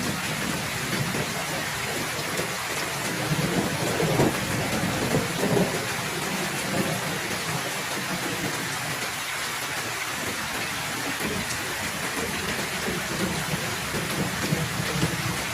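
Heavy rain falling steadily, with thunder rumbling low underneath and a few louder swells about four to six seconds in.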